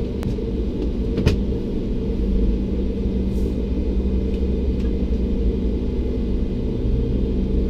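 Steady low rumble and hum of cabin noise inside a Bombardier CS300 airliner on the ground, with a single sharp click about a second in.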